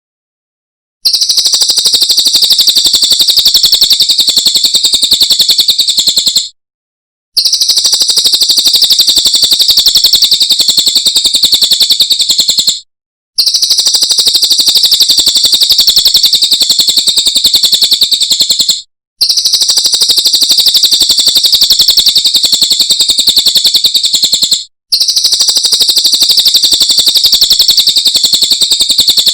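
Cililin bird song from a masteran training recording: a rapid, high-pitched trill sung in long bouts of about five to six seconds, separated by brief pauses. The first bout starts about a second in.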